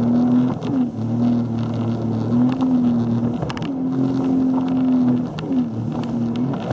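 Motorboat engine running steadily, its pitch dipping briefly and recovering several times as the speed varies.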